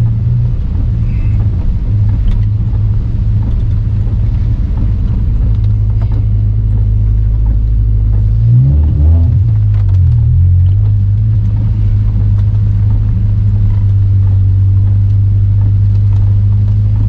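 Toyota MR2 Spyder's swapped-in 2ZZ-GE 1.8-litre inline-four running at a steady, easy cruise during engine break-in, a steady low drone. About halfway through, the engine pitch shifts briefly, then settles back.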